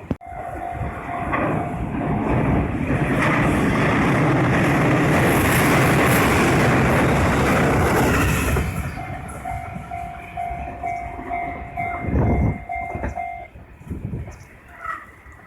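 A train passes over a level crossing, its rumbling loudest for several seconds in the middle. The crossing's electronic warning bell rings in a steady pulsed two-tone pattern before and after the train and stops about two seconds before the end.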